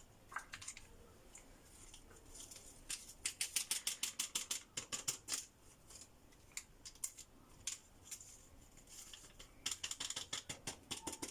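Kitchen handling while adding semolina and baking powder sachets to a mixing bowl: runs of quick, crisp clicks and rustles in two spells, about three seconds in and again near the end.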